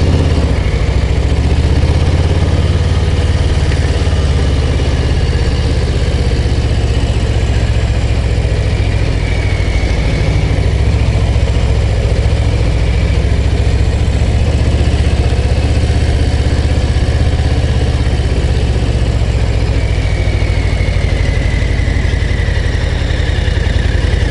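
Harley-Davidson Low Rider ST's V-twin engine running steadily under way: a deep, even exhaust rumble with no big changes in revs.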